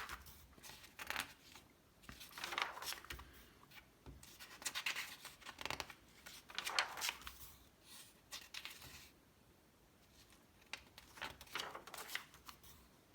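Magazine pages being handled and turned: several faint paper rustles and swishes with short pauses between them.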